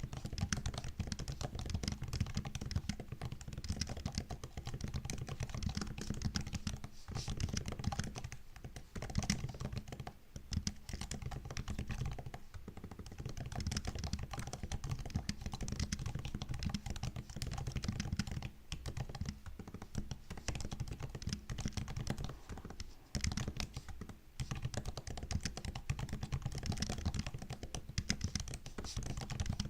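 Typing on a MacBook's built-in laptop keyboard: a continuous run of quick key clicks, pausing briefly a few times.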